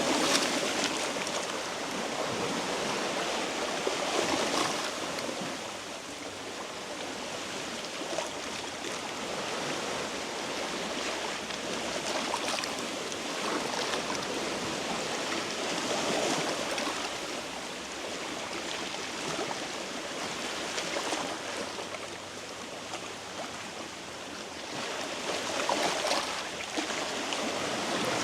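Sea waves washing against a rocky shore, a steady rush that swells and eases every few seconds.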